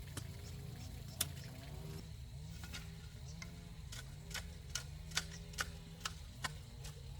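A series of sharp, irregular clicks, about ten in all and coming closer together in the second half, over a steady low hum.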